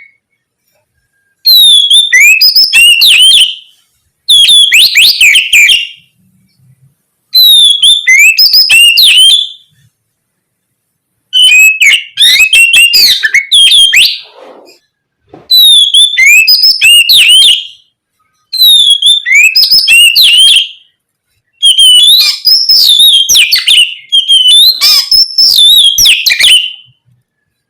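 Oriental magpie-robin (kacer) singing loud, full-voiced song: about seven phrases of fast, varied whistled notes, each two to three seconds long, with short silent pauses between them.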